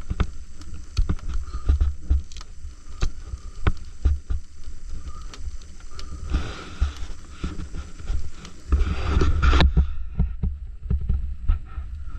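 Wind buffeting the microphone in gusts, with scattered sharp clicks and cracks and two brief rushing noises about six and nine seconds in.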